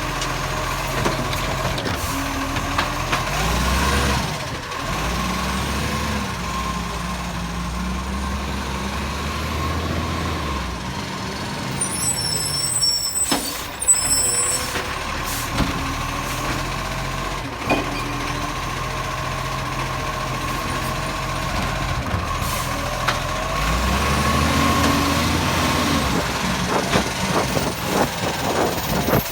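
Bucher-bodied recycling garbage truck running, its engine revving up and falling back twice. Short hisses of compressed air come around the middle.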